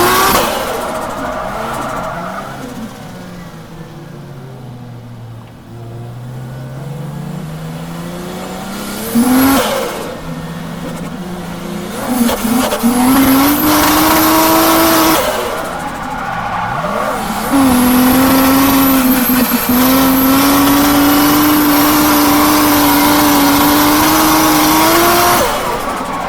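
Toyota JZX drift car's straight-six engine, said to be misfiring: the revs fall off and climb back, then are held high for long stretches in the second half while the car drifts.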